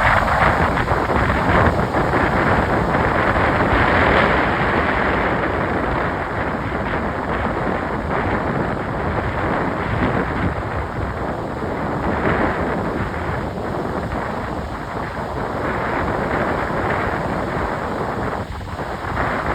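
Strong gusting wind buffeting the microphone, with waves surging against the pier underneath. The loudness swells and dips with the gusts.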